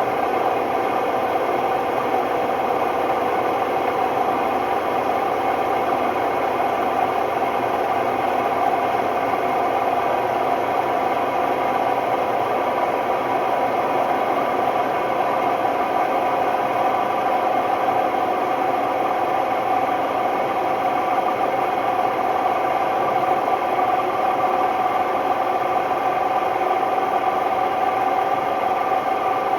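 Hotpoint Ultima WMD960 washing machine in a steady high-speed spin, a loud constant roar with a steady whine on top, from worn drum bearings.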